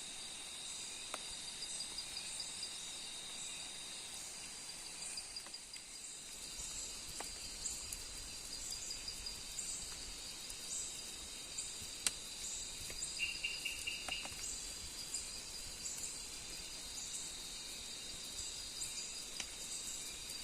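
Forest insects at night: a steady high-pitched insect drone with a higher chirp repeating a little under twice a second. A brief pulsed call comes about two-thirds of the way through, along with a few faint clicks.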